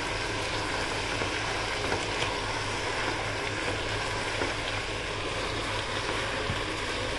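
Chicken and onions with red chilli powder and chicken masala, sizzling steadily in a pot, with a few faint ticks and a low steady hum underneath.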